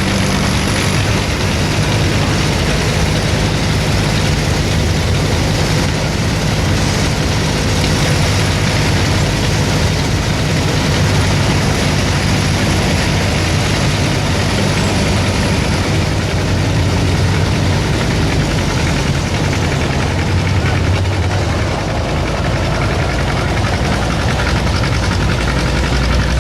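Loud, steady running of a modified pulling tractor's heavy engine, with a deep low note that stays even and shows no big revs.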